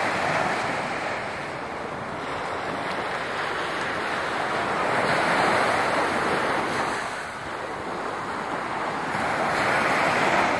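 Surf washing onto a beach after a storm, a steady wash of breaking waves that swells and eases, louder about halfway through and again near the end.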